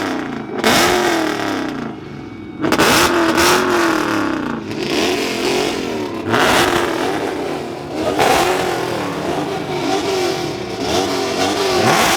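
High-powered car engine being revved hard, about six times, each rev rising and falling in pitch.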